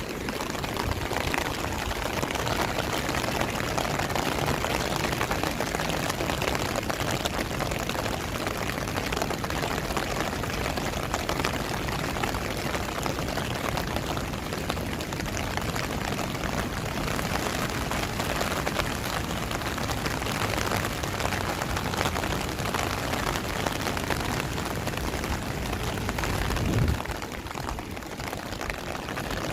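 Steady rain falling and splashing on hard surfaces. A brief louder low rumble comes near the end.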